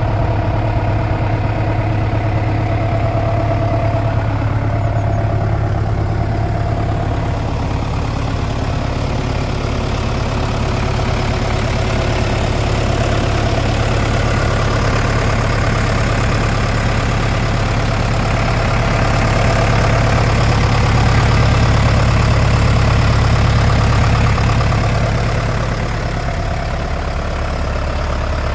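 John Deere 5620 tractor's four-cylinder diesel engine idling steadily. It runs a little louder for several seconds near the end, then settles back.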